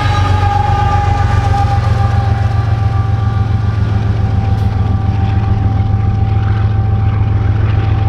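BNSF freight train passing close by: a steady, loud low rumble with several steady whining tones over it.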